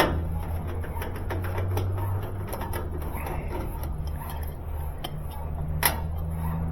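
Scattered light clicks and taps of hand work on a dryer's metal cabinet and its screws, with a sharp click at the start and a louder one near the end, over a steady low hum.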